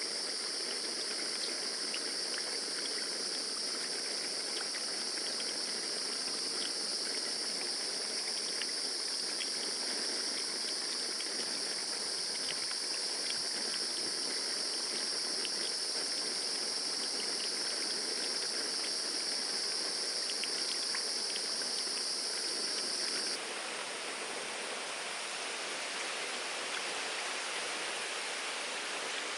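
Forest ambience: a steady high-pitched insect drone over a constant rushing, water-like background noise with faint scattered ticks. The insect drone cuts off suddenly about 23 seconds in, leaving the rushing noise.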